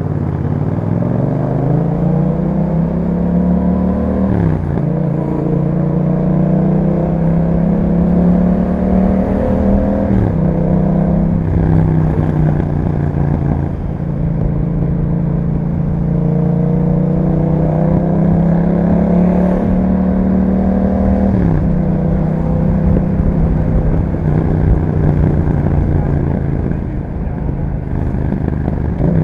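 2021 Yamaha MT-07's parallel-twin engine through an Akrapovic exhaust, accelerating through the gears. The revs climb and drop sharply at upshifts about 5, 10 and 21 seconds in, then hold steady at a cruise.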